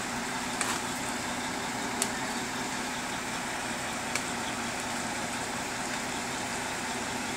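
Mack log truck's diesel engine idling steadily, a low even hum under a constant hiss of rain. Three sharp ticks are heard, the first about a second in.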